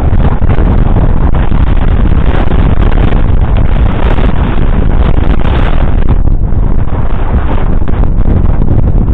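Fendt 942 Vario's 9.0-litre six-cylinder diesel working hard, pulling a cultivator through soil, loud and steady, with wind buffeting the microphone.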